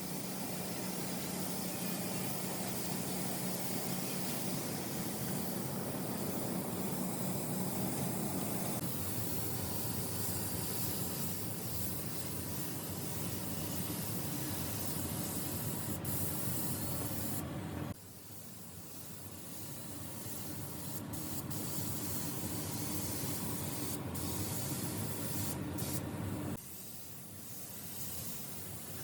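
Compressed-air paint spray gun hissing steadily as it sprays the panel, dropping abruptly in level twice in the second half.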